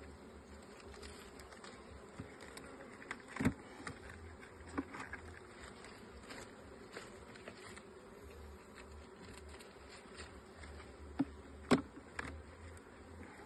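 Honeybees buzzing around an open hive, a steady hum, broken by a few short knocks, the loudest about three and a half seconds in and near the end.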